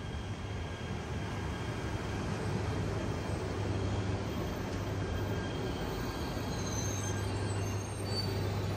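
E3 series Yamagata Shinkansen train pulling into a station and slowing, the cars rolling past with a steady low hum and growing a little louder. A few faint high squeals come near the end.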